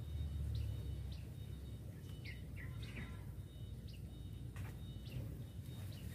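Small birds chirping, short high notes that drop in pitch, repeated about once a second, over a low steady rumble.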